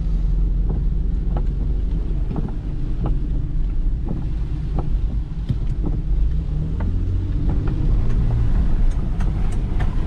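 Vehicle cabin noise while driving on flooded roads: a steady low rumble of engine and tyres, with scattered sharp ticks and taps throughout.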